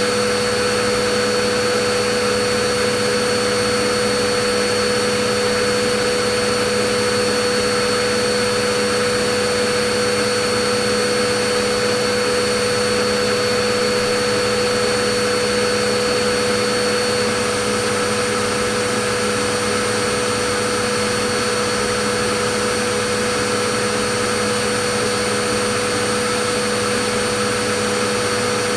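Vacuum cleaner motor running continuously: a steady rushing hiss with a constant whine laid over it, unchanging throughout.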